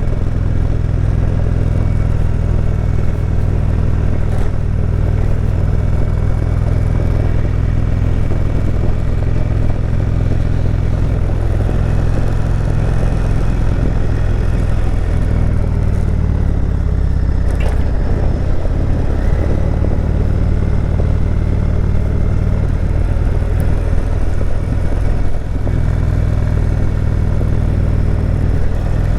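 Indian Chieftain Dark Horse's V-twin engine running steadily while the motorcycle rides, its note shifting in pitch about halfway through.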